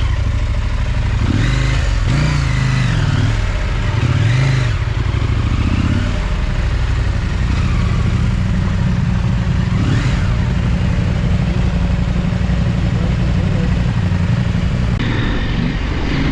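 Big adventure motorcycle engine under way off-road, revving up and down several times in the first few seconds, then running at a steady pitch.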